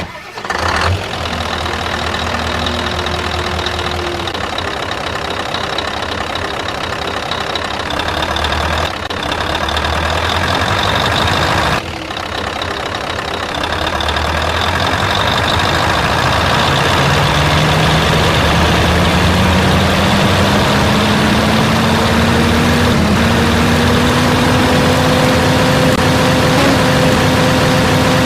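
Truck engine running steadily, with two brief dips in level, then its pitch rising slowly and evenly as it gains speed.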